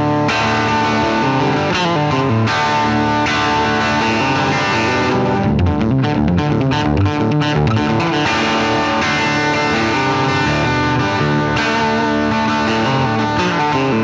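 Gibson Melody Maker electric guitar strummed through an amplifier, with chords changing every second or so. A quicker run of single picked notes comes about midway.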